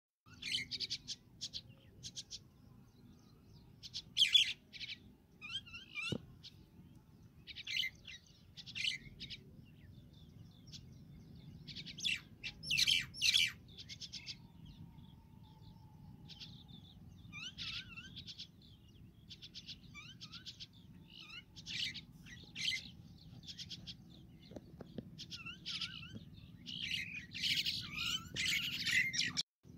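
Small birds chirping and twittering in repeated quick bursts of high notes, with a short gap between each bout. The chirping grows busier near the end.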